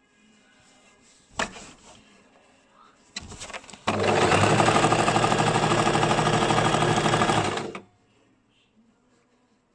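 Basic electric sewing machine stitching in one run of about four seconds, with a fast, even needle rhythm, starting about four seconds in. Before it come a sharp click and a few short starts of the machine.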